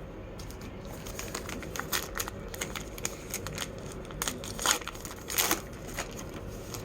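A trading-card pack wrapper being torn open and crinkled by hand, an irregular run of crackles with the loudest rustles about two-thirds of the way through.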